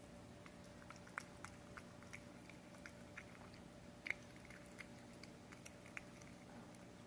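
A cat chewing and licking wet paté with gravy: small irregular wet clicks and smacks, a few a second, the loudest a little past the middle, over a steady faint hum.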